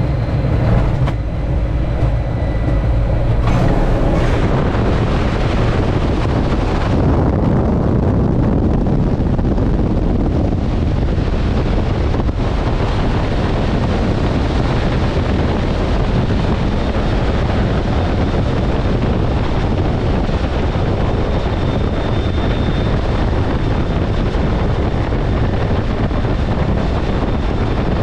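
Steady, loud cockpit noise of a T-33 jet trainer in flight: turbojet engine and rushing airflow, with a faint thin whine above it.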